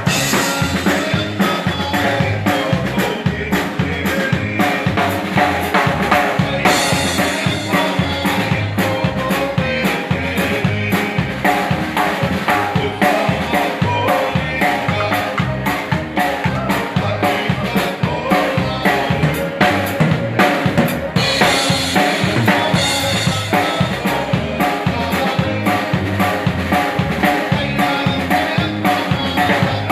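Texas Czech dance band playing live, the drum kit keeping a steady beat over a repeating bass line.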